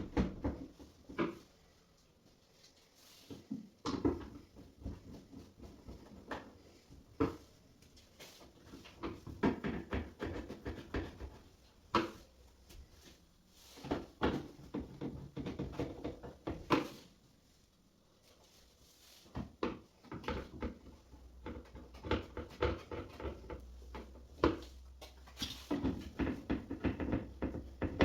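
Irregular knocks, clicks and clattering from hands and tools handling washing-machine parts during a repair. They come in short bursts with brief pauses between.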